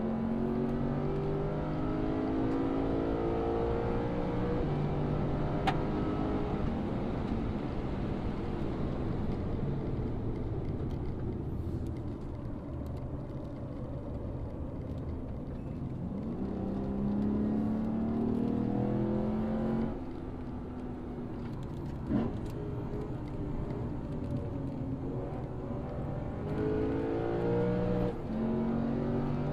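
Lexus RC F's 5.0-litre V8 accelerating hard through the gears, its pitch climbing and dropping back at each upshift. It pulls like this at first, runs lower and steadier through the middle, then pulls again about halfway and once more near the end.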